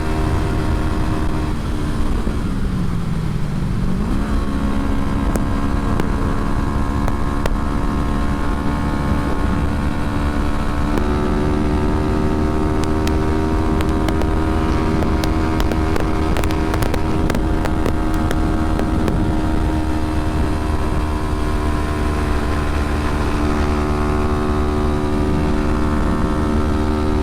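A 2011 Kawasaki Ninja 250R's parallel-twin engine running under way, over a low wind rumble. The engine pitch falls a couple of seconds in, then picks up again sharply, and steps higher about eleven seconds in.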